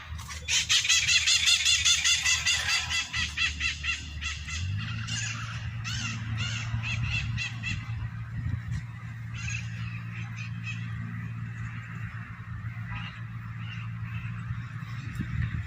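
Birds calling loudly in a rapid, even series of high, raspy calls, several a second, that thin out and fade after a few seconds. A steady low hum runs underneath and shifts up in pitch about four and a half seconds in.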